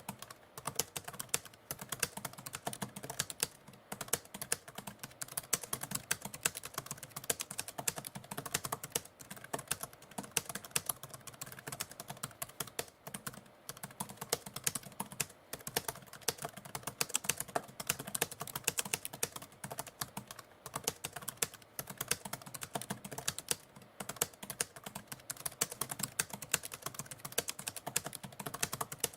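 Typewriter keys being struck in a fast, continuous run of clacks, with only brief pauses between bursts of typing.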